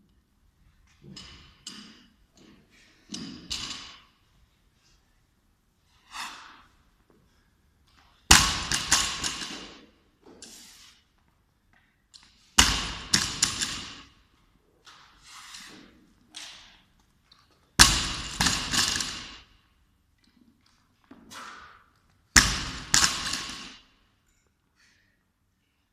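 Loaded barbell (20 kg bar with 10 and 2.5 kg plates) dropped on the floor four times, about every four to five seconds, each drop followed by a second or so of bouncing and rattling plates. Quieter knocks and clinks come in between.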